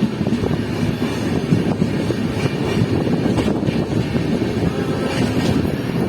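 Passenger express train rolling past on the track, a steady low rumble of the coaches' wheels with a few faint clicks.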